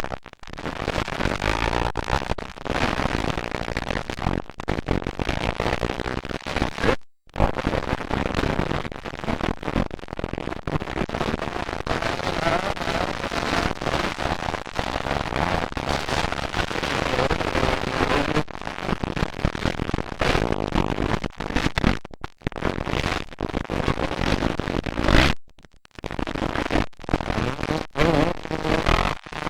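Motocross dirt bikes racing, their engines revving and popping, loud and crackly with many sharp spikes. The sound cuts out abruptly twice, briefly.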